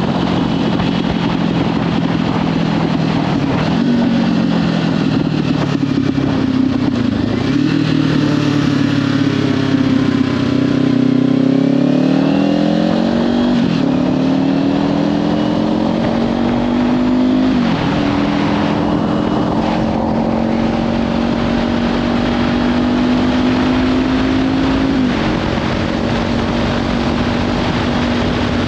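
Kawasaki Ninja 500's parallel-twin engine through a Leovince slip-on exhaust, pulling under way: its note climbs steadily, then drops sharply at each gear change, three times in the second half, with a longer dip and climb before that. Heavy wind noise on the microphone.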